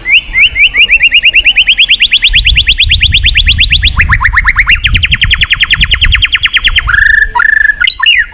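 White-rumped shama singing a long mechanical-sounding trill: quick repeated rising notes, about eight a second. About four seconds in it switches to a faster run of sweeping notes, and near the end it breaks into a few clear whistled notes.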